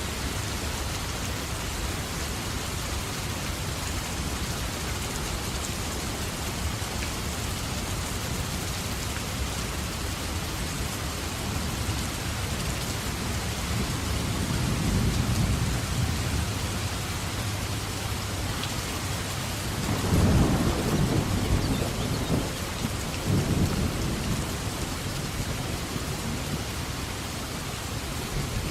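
Steady heavy rain falling in a forest, with thunder rumbling: a low swell about halfway through, then a louder peal about two-thirds in that rolls on for a few seconds.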